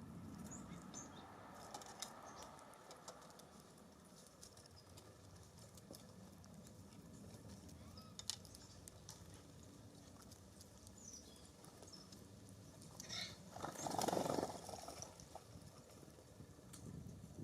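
Small songbirds at a seed feeder: scattered light pecking and scrabbling clicks with a few faint, short high chirps. A brief rush of noise about fourteen seconds in is the loudest sound.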